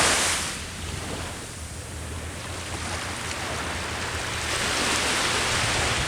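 Sea waves washing onto the shore: one wave's surge fades in the first second, and the next builds up again from about four and a half seconds in, over a low steady rumble of surf.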